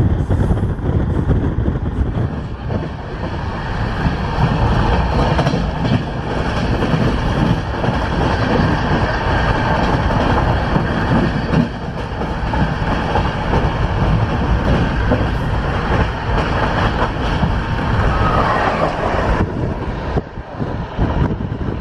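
Express passenger train running at speed, heard from inside the coach: a loud, steady rumble of wheels on the track with clickety-clack of the rail joints.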